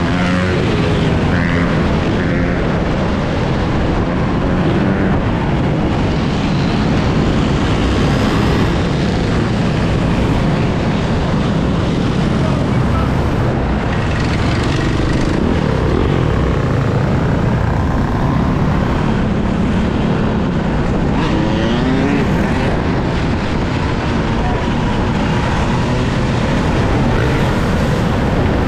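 Steady wind rush and road noise from riding an electric dirt bike in city traffic, with a few short whines rising in pitch.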